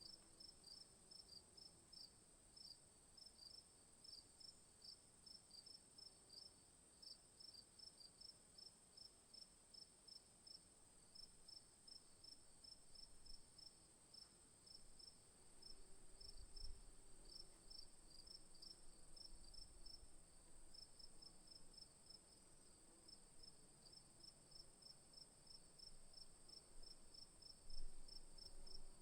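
Faint insects chirping in an even rhythm, about three chirps a second, over a steady high-pitched buzz.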